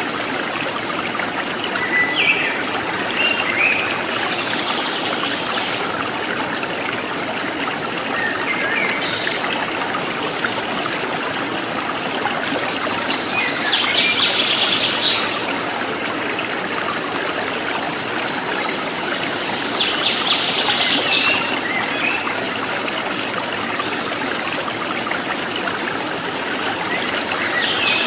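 Water trickling and splashing steadily, like a small forest stream, with wild birds calling briefly every few seconds over it. A thin, high, steady tone also comes in a few times.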